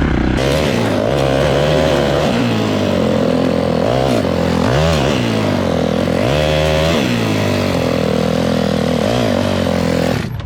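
Dirt bike engine being ridden hard, its pitch rising and falling again and again as the throttle is opened and shut. The sound cuts off suddenly near the end.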